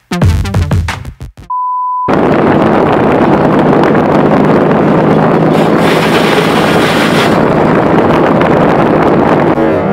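Electronic music cuts off about a second and a half in, followed by a short, steady, high beep lasting about half a second, then a loud, steady rushing noise with a low hum under it.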